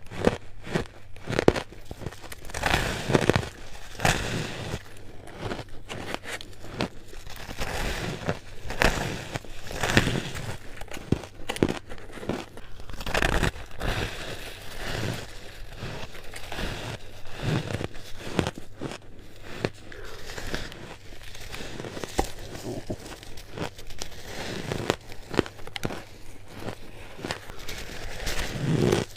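Close-up crunching of ice being bitten and chewed: a dense, irregular run of crisp crunches and crackles.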